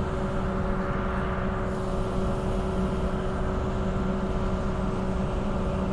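Interior running noise of a Bombardier B-series electric multiple unit cruising at steady speed: a constant low rumble of wheels on the track with a steady hum from the traction equipment.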